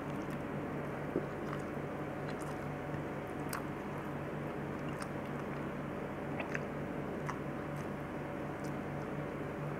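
Close-miked chewing and mouth sounds of a person eating a rice dish by hand, with small sharp clicks and smacks scattered through, over a steady low hum.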